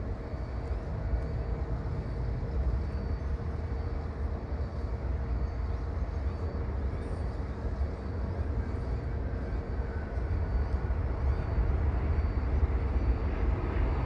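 Jet airliner engines at an airport: a low, steady rumble with a faint even hum over it, growing louder near the end.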